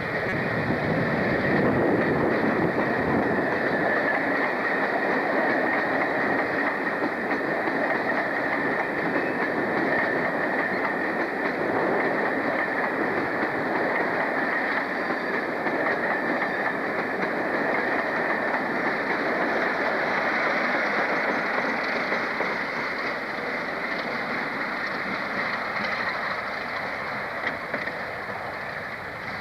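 A train running on the rails, a steady rumble and rail noise with a thin high ringing tone over it, easing off near the end.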